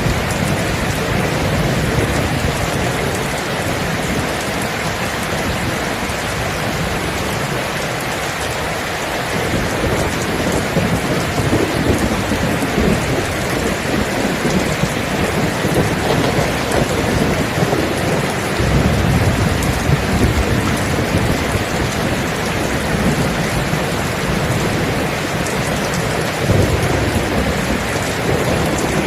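Steady heavy rain with rolling thunder, the low rumbles swelling and fading several times, most strongly about two-thirds of the way in.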